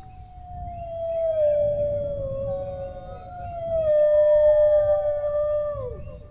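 Dogs howling: one long howl starts high, settles onto a held note and drops away about six seconds in. A second howl joins about three seconds in and overlaps it. A steady low background rumble sits underneath.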